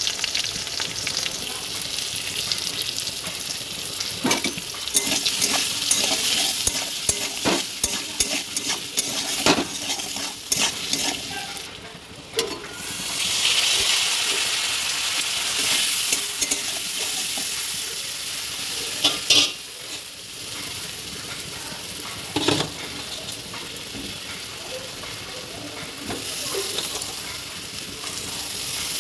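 Potato cubes frying in oil in a metal kadai, sizzling steadily while a spoon stirs and scrapes them around the pan, with a few sharp knocks of the spoon against the metal. The sizzle swells about halfway through as slit green chillies drop into the hot oil.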